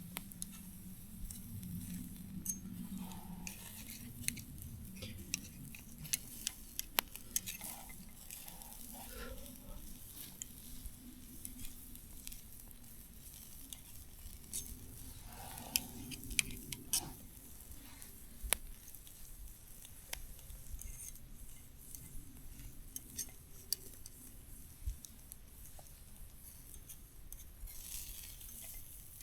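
Camp cooking: scattered light clicks and clinks of utensils against cookware, over a faint sizzle.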